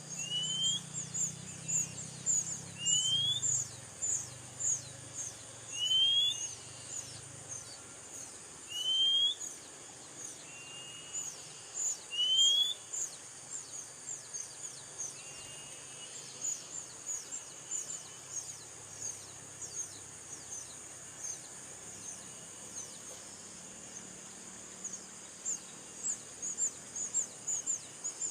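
Birds calling: a short rising whistled call repeats about every three seconds for the first half, over a fast, steady run of brief high chirps that fall in pitch, with a faint steady high hiss behind.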